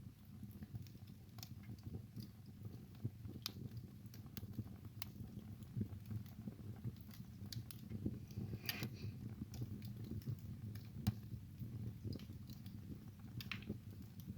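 Wood fire burning in a fireplace: a low steady rumble of flames with irregular crackles and sharp pops from the burning logs, a few louder pops scattered through.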